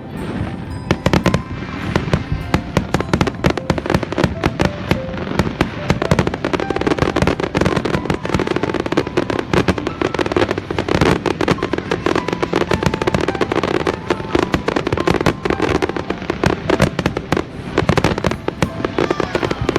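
Dense, continuous barrage of New Year fireworks and firecrackers exploding: many sharp bangs and crackles overlapping without a break.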